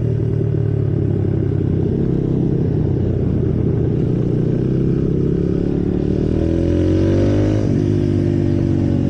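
Symoto 140cc pit bike's single-cylinder four-stroke engine running while ridden. The note climbs as it revs up about six seconds in, then drops back sharply near the end.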